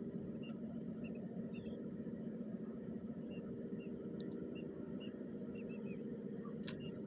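Steady low hum with a couple of held tones, like a distant motor, under many short, faint high chirps from small birds. A sharp click comes near the end.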